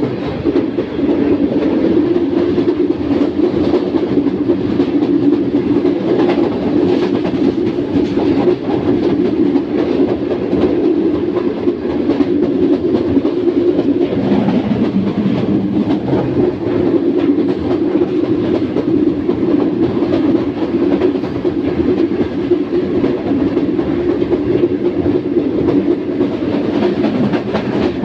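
Passenger train running at speed: steady rumble of the coach wheels on the rails, with faint clicks. The rumble's pitch drops lower for a few seconds about halfway through.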